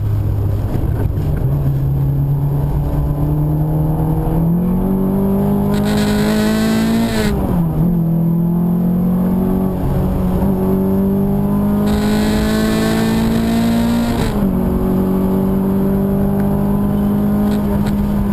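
Car engine heard from inside the cabin, pulling hard and rising slowly in pitch while lapping a wet circuit. Its pitch drops sharply about seven seconds in and again about fourteen seconds in, as the driver changes gear.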